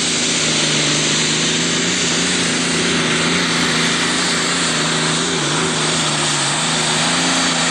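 Super stock pulling tractor's turbocharged engine running flat out under load as it pulls the sled down the track. It holds a steady pitch with a couple of brief dips, over a strong hiss.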